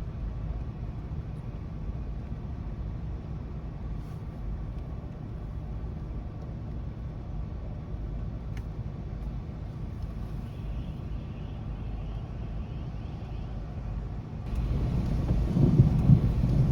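A steady low outdoor rumble through most of the stretch. About two seconds before the end a louder rolling rumble of thunder comes in during a thunderstorm.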